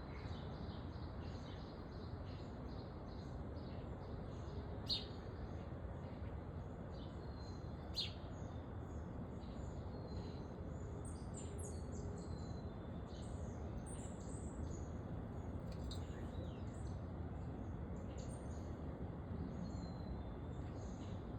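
Small backyard songbirds chirping and twittering: many short, high chirps over a steady low background rumble, with two sharp, louder ticks about five and eight seconds in.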